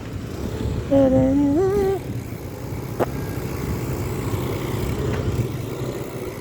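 A voice sings a held note about a second in, sliding up in pitch at its end, over a steady low rumble of road traffic. A single click comes about three seconds in.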